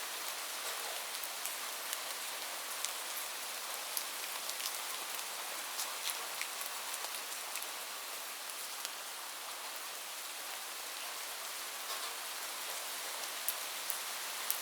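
Steady rain: an even hiss of falling rain with many sharp individual drop ticks scattered through it.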